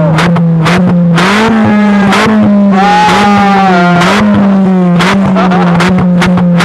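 VW Golf 3 16V's 2.0 four-cylinder engine idling loudly through a straight-through 'tube afrik' exhaust with no silencer, with short throttle blips that raise the pitch a few times and sharp pops and crackles from the exhaust.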